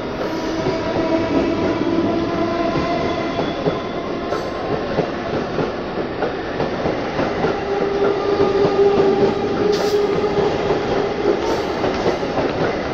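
Electric multiple-unit suburban local train rolling slowly along the platform: a steady rail rumble with a sustained whine that shifts higher in pitch about eight seconds in. A few brief sharp clicks are heard.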